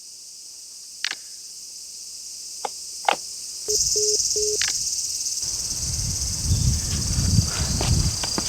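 Insects, crickets by their sound, chirping in a steady high chorus that comes in suddenly a little over a third of the way in. A few soft clicks come before it, and a low rumble with scattered taps joins it in the second half.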